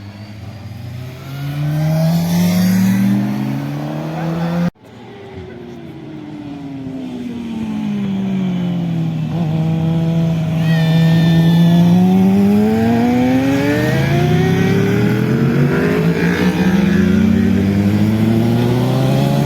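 Motorcycle engines accelerating hard, their pitch rising. After a sudden cut about five seconds in, an engine note drops, holds steady, then climbs again as it accelerates.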